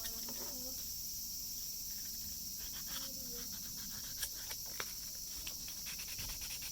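Steady high-pitched background hiss with a few faint clicks and light scrapes scattered through it.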